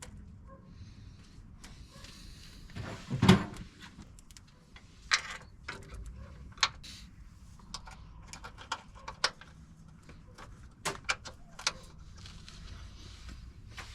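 Scattered clicks, knocks and clatter of tools and metal parts being handled in a garage, with one louder thump about three seconds in.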